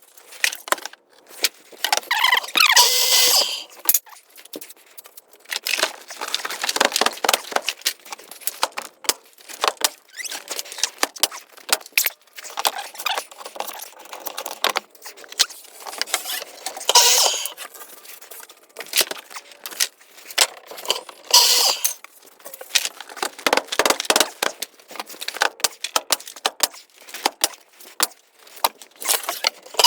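Irregular clicking, knocking and metallic rattling from carpentry work, with louder bursts of clatter about three seconds in and again around seventeen and twenty-one seconds.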